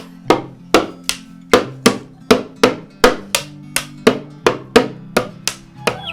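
Sharp, evenly spaced knocks, about two and a half to three a second, each with a brief ring, over music with sustained low notes.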